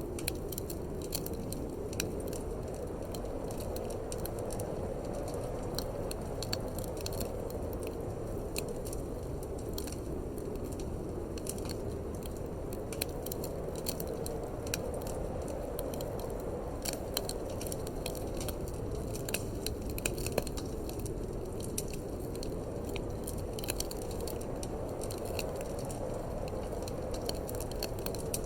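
Wood fire in a fireplace crackling, with frequent irregular sharp pops and snaps, over a steady low rush of wind that swells and eases slowly.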